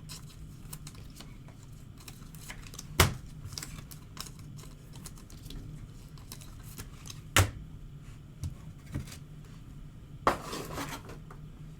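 Trading cards and card packs being handled on a table: light clicks and rustles, with two sharp taps about three and seven seconds in and a short rustle near the end, over a steady low hum.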